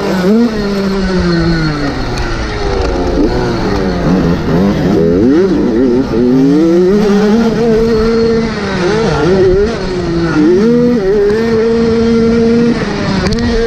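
Motocross bike engines revving hard, several at once, their pitch rising and falling repeatedly as riders open and close the throttle around the track.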